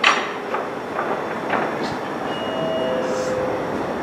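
Electric train running on the rails, a steady rumble broken by a few sharp knocks from the wheels over rail joints, the loudest at the very start. Near the end a short two-note tone steps down in pitch.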